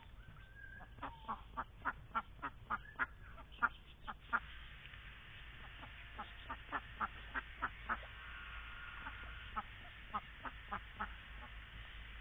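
Indian Runner ducks quacking in quick runs of short quacks, about three a second: a long run in the first few seconds, then two shorter runs after brief pauses.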